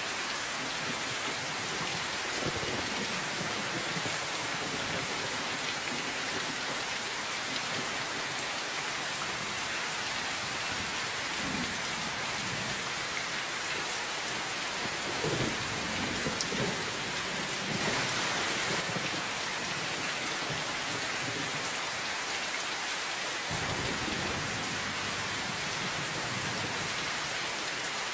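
Steady rain falling in an even hiss, with several low rumbles of distant thunder swelling and fading, the strongest around the middle and another starting near the end.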